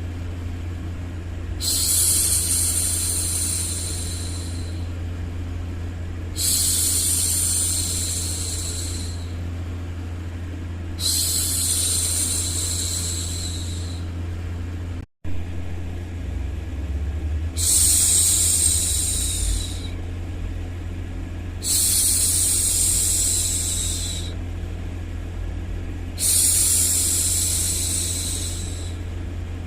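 A woman's soft 'shhh' hushing, repeated six times at an even pace, each shush lasting two to three seconds, over a steady low hum. About halfway the sound cuts out for an instant.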